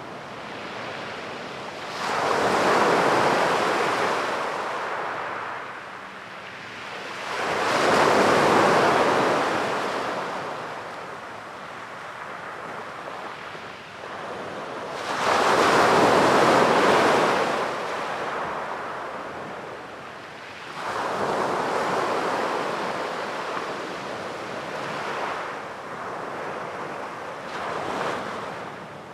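Sea waves breaking and washing up a beach: five swells of surf noise, roughly six seconds apart, each rising and then fading back, the loudest about a quarter and halfway through.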